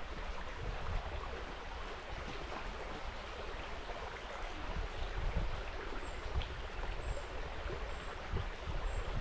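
River water flowing, a steady rushing, with low gusty rumbles on the microphone. From about halfway through, a faint high short peep repeats about once a second.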